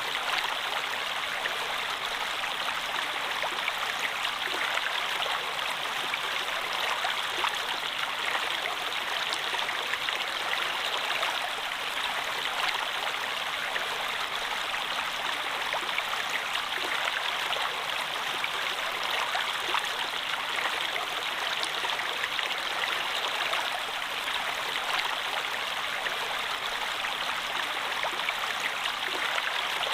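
Running water of a stream, a steady babbling and splashing with no let-up.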